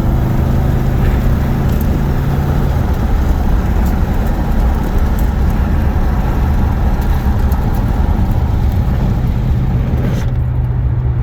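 Oldsmobile 455 Rocket V8 running under way, heard from inside the car's cabin with steady rushing road and wind noise. The engine's low hum fades about three seconds in and comes back near the end, when the rushing noise turns duller.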